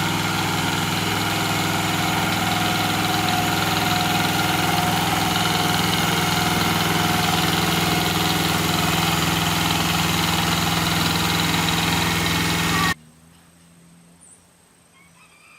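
A motor vehicle's engine running steadily, which stops abruptly near the end.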